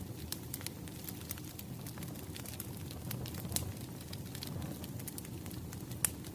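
Wood fire crackling: a steady low rumble of burning logs with frequent sharp pops, one louder pop about six seconds in.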